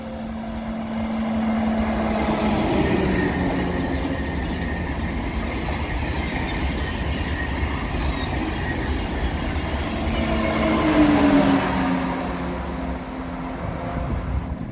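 Eurostar high-speed train passing through at speed: a steady rush of wheel and air noise. A humming tone drops in pitch as the train goes by, once about two and a half seconds in and again around eleven seconds, when it is loudest.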